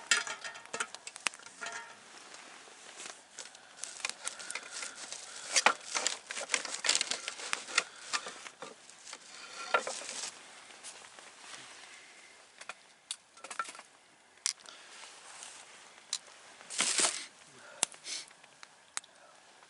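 Wood campfire crackling: irregular sharp snaps and pops of burning wood, denser in the first half, with a longer crackling burst near the end.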